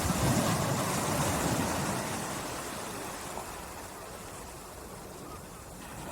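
Gentle sea waves lapping on the shore: a wash swells in at the start, then its hiss slowly fades as it draws back.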